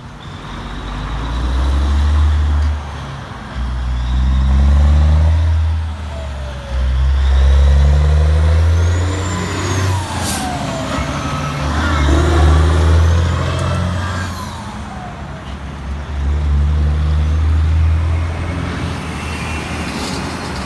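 Peterbilt 379's Caterpillar 3406 inline-six turbo diesel pulling hard through the gears: about five loud surges with short dips between them at the shifts. A turbo whistle rises and falls over the engine, with a sharp crack about ten seconds in.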